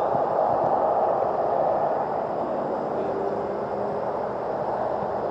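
Brushless electric motor and propeller of an RC airplane buzzing steadily in flight, easing off slightly about halfway through.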